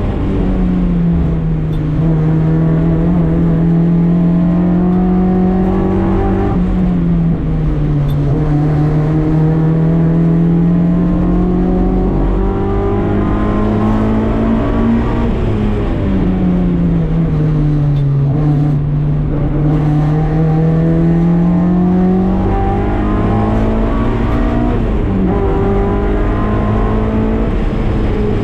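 K24-swapped Mazda MX-5's four-cylinder engine running hard at full load, heard onboard the car. The engine note drops in pitch several times and climbs again, with road and wind noise underneath.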